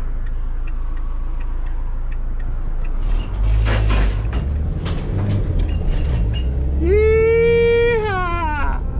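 Van engine running, heard from inside the cab, with a long pitched tone near the end that holds steady and then slides down in pitch as it stops.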